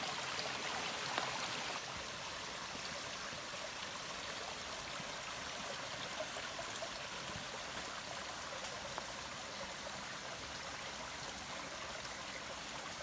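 Forest stream running: a steady, even rush of water with a few faint ticks.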